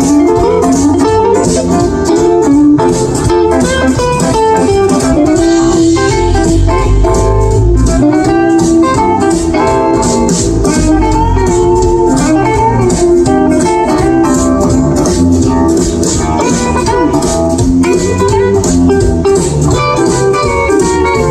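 Live band playing an instrumental break of a jump-blues tune, with guitar to the fore over a steady beat.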